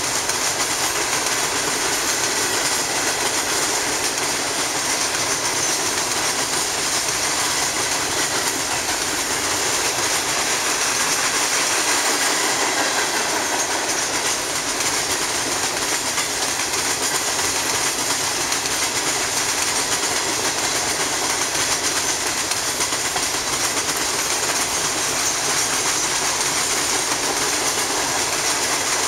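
Empty coal hopper cars of a freight train rolling past at speed: a steady, unbroken clatter of steel wheels over the rails.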